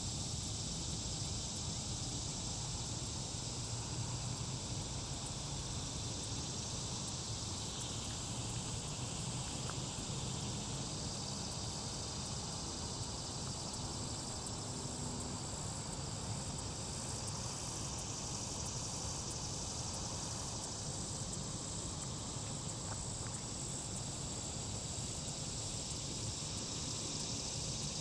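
Steady outdoor ambience: a constant high-pitched insect chorus over a low rumble, with no aircraft heard.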